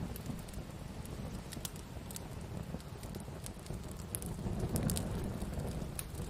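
Wood campfire burning: a steady low rumble of flames with sharp crackles and pops scattered through it, the rumble swelling a little about two thirds of the way in.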